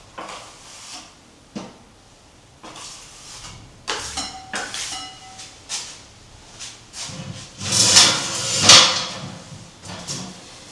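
Irregular knocks and clatters of objects being handled, some with a brief ringing tone, then a louder noisy rush about two-thirds of the way through.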